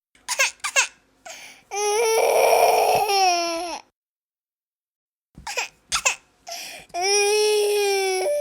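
Baby crying: two long wails about two seconds each, each dropping in pitch at its end and each preceded by short gasping sobs, with a silent pause between them.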